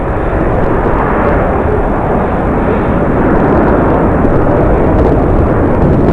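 Jet airliner engines, a steady rushing noise that slowly grows louder.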